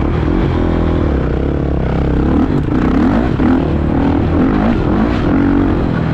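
Dirt bike engine running while being ridden, its pitch rising and falling with the throttle over a steady rush of noise.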